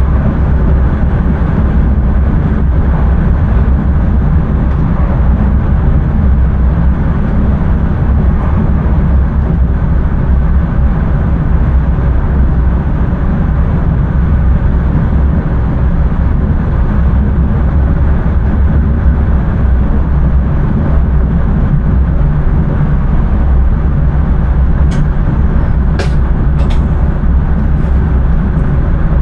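Intercity train running along the track, heard from inside the driver's cab: a steady, loud low rumble of wheels and running gear. A few sharp clicks come near the end.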